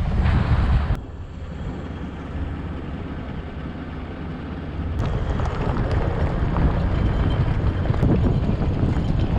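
Vehicle driving on a dirt road: low engine and road rumble with wind buffeting the microphone. The rumble drops suddenly about a second in and comes back up about five seconds in.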